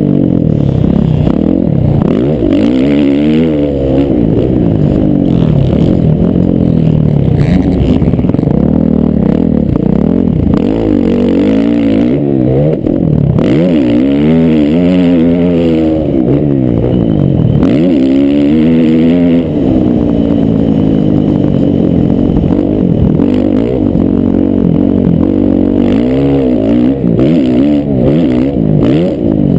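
Several motocross dirt bikes running on the track, their engines revving up and down continuously, with the pitches of different bikes overlapping and crossing.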